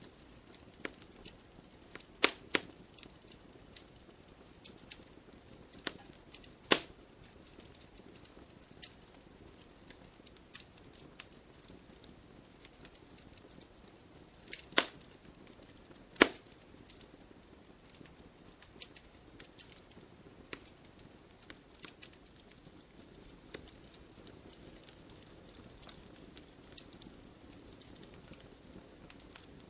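Wood campfire crackling: irregular sharp pops and snaps over a soft low hiss, with a handful of much louder snaps scattered through.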